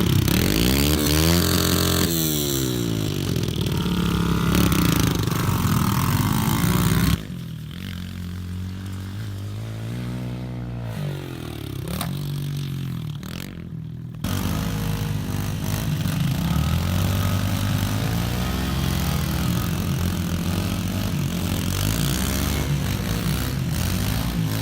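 Pit bike engines running and revving, their pitch rising and falling with the throttle. The sound drops suddenly to a quieter engine about seven seconds in, then comes back loud about halfway through.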